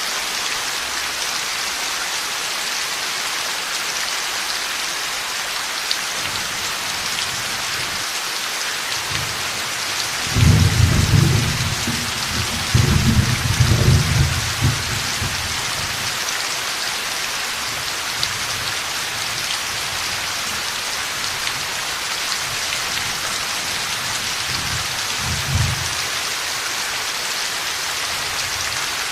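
Heavy rain falling steadily, with a long rolling thunderclap rumbling from about ten seconds in for several seconds and a brief, weaker rumble of thunder near the end.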